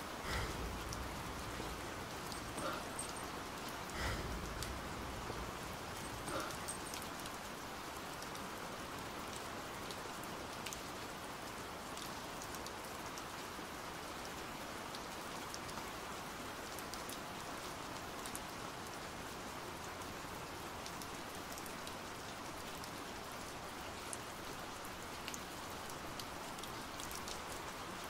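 Steady pouring rain, an even wash of noise, with a few brief louder spots in the first seven seconds.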